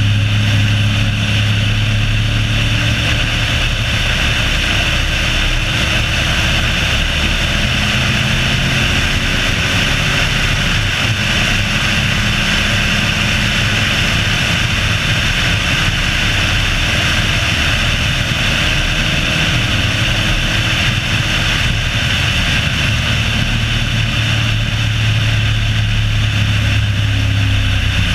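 Car engine running steadily at track speed, its pitch drifting slowly as the driver holds the throttle through the corners, over a steady rush of wind and road noise; the revs begin to climb right at the end.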